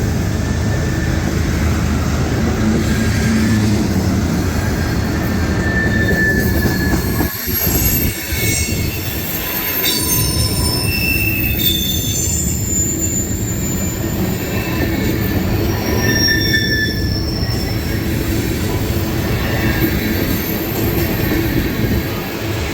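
Loaded ethanol tank cars of a long freight train rolling past close by: a steady rumble of steel wheels on rail, with short high-pitched wheel squeals coming and going, mostly in the middle stretch.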